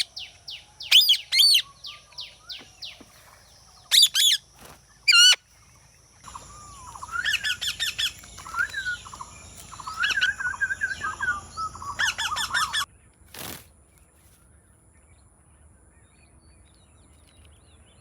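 Indian ringneck parakeet calling: several shrill screeches in the first five seconds, then about six seconds of rapid chattering and squawks that end in another screech.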